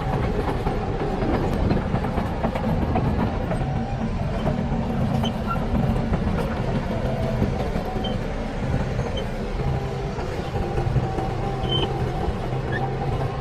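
Shantui DH17C bulldozer's diesel engine running steadily, a continuous heavy drone with a thin steady whine above it.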